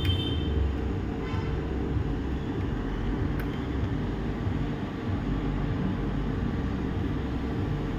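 Steady low background rumble and hum, with no distinct events.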